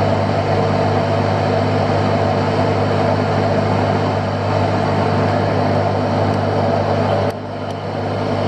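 Fishing boat's engine running steadily, a low hum under a constant hiss of wind and water. The level drops suddenly about seven seconds in.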